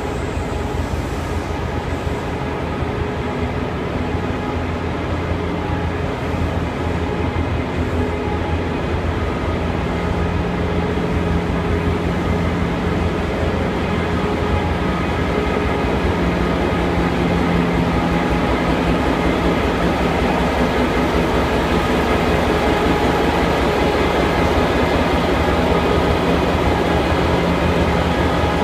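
Slow-moving passenger train with a steady diesel engine hum and wheels running on rail. It grows louder in the second half as the trailing CountryLink diesel power car draws level.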